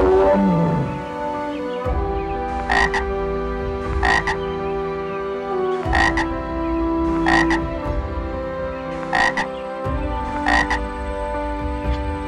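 A frog croaking: six short calls, each a quick double stroke, repeated about every one and a half to two seconds.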